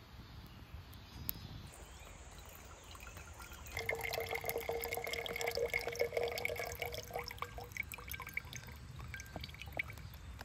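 Liquid pouring for about four seconds, starting about four seconds in, with many small clicks and crackles through it.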